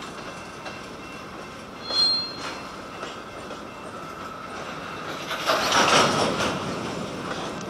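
Covered hopper cars of a freight train rolling past, a steady rumble and clatter of steel wheels on rail. A short high squeal comes about two seconds in, and a louder stretch of wheel noise about six seconds in.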